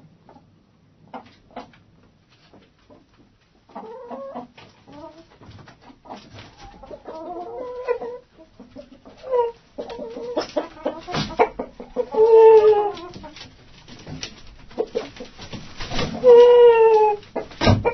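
Chickens clucking in a hen house: sparse, quiet clicks at first, then busier clucking from about four seconds in, with two louder drawn-out calls, one past the middle and one near the end.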